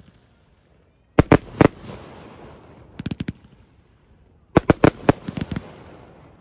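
Fireworks going off in quick volleys of sharp bangs: three clusters of several cracks each, starting about a second in, each dying away into a fading rumble.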